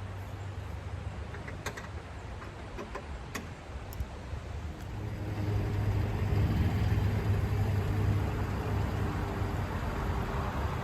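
A vehicle engine running steadily, growing louder about five seconds in and holding there. A few short clicks sound in the first four seconds.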